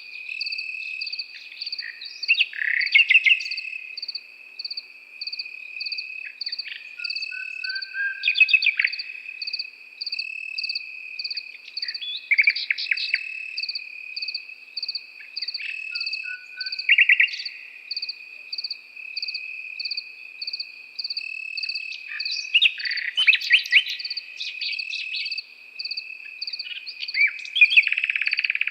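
Nightingale singing short phrases of rapid, varied notes every four to five seconds, over a steady cricket trill and a second insect chirping about twice a second.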